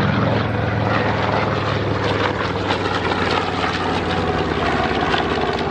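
Radial piston engines of a WWII bomber (B-17 or B-25) running at cruise power in a flyby, a loud, steady propeller drone.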